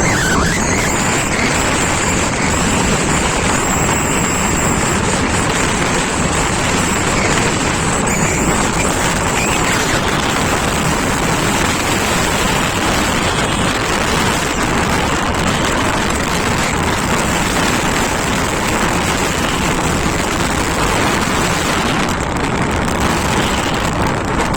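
Steady rush of wind buffeting the microphone over the running noise of a moving scooter.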